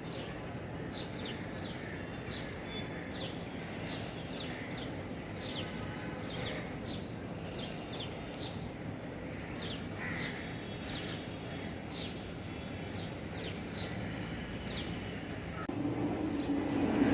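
Small birds chirping over a steady background hum: many short, high calls, a few each second. Near the end a louder low rumble builds.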